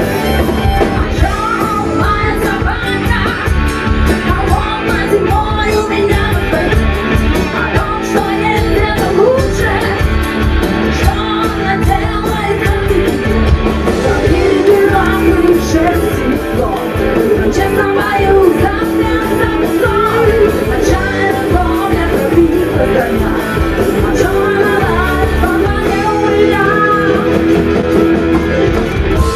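Rock band playing live, with a singer over electric guitar, bass and drum kit.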